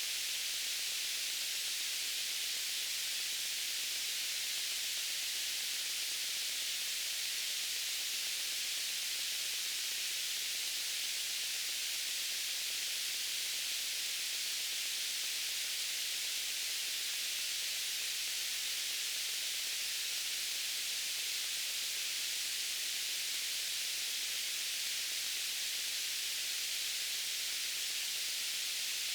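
Steady white-noise hiss, even and unchanging, weighted toward the high end.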